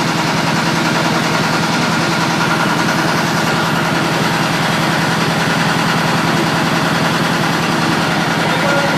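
Engine idling steadily, with an even, fast pulsing and no change in speed.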